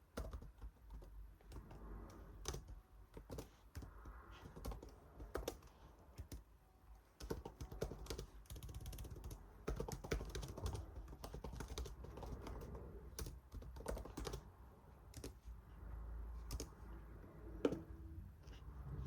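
Typing on a computer keyboard: quiet, irregular key clicks with short pauses, and one louder click near the end.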